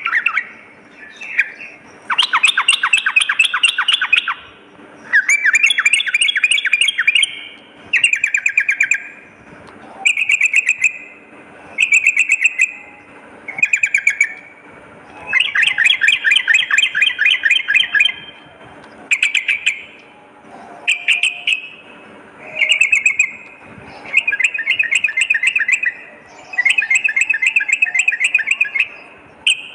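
Yellow-vented bulbul (trucukan) singing: short, bubbling, chattering phrases, one to three seconds each, repeated every second or two with short gaps.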